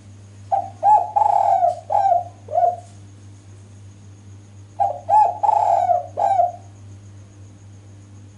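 Female spotted dove cooing: two phrases of several notes each, the middle note held longest. Under the calls runs a steady low hum.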